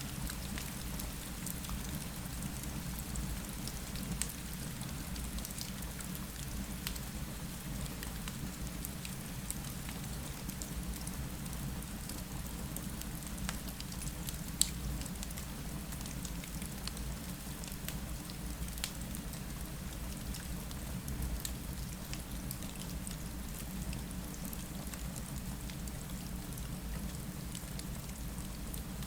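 Steady rain against a window mixed with a crackling fireplace: a continuous hiss over a low rumble, with scattered sharp crackles and pops, one louder pop about halfway through.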